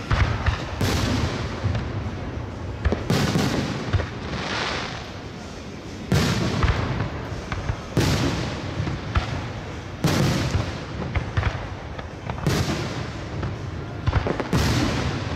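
Aerial firework shells bursting overhead, a sharp boom about every two seconds, each trailing off in a long rumble.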